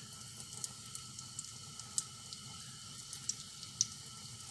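Batter fritter frying in a little oil in a nonstick pan: a faint steady sizzle with scattered sharp pops, the loudest about two seconds in and near the end.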